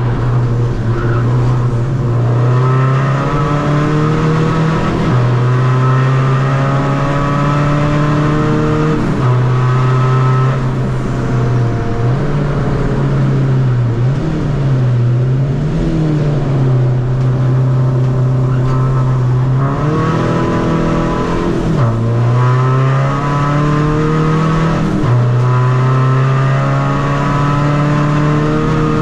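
Tuned 2.0 common-rail turbo diesel engine of a Seat Ibiza FR being driven hard on track: the engine note climbs repeatedly, with breaks at gear changes and lifts for corners several times.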